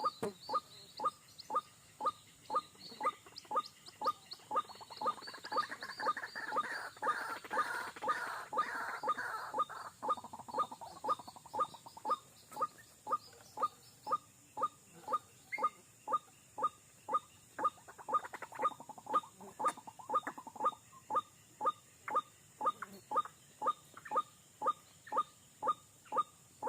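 White-breasted waterhen calling, a steady string of short repeated croaking notes about twice a second. A louder, higher burst of calling runs from about five to ten seconds in.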